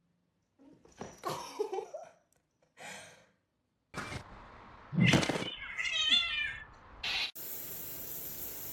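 A cat meowing in short gliding calls, with a loud thud about five seconds in and a warbling high-pitched call just after it.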